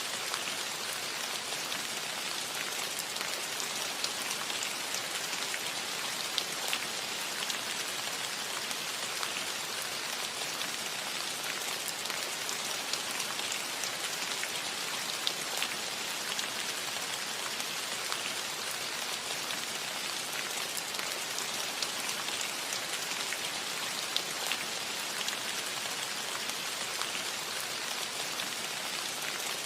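Steady rain falling on a roof: an even hiss with many scattered sharper ticks of single drops.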